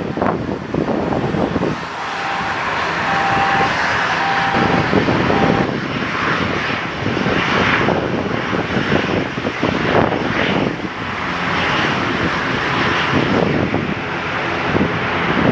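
Airliner engines running, heard as a loud, fluctuating rumble.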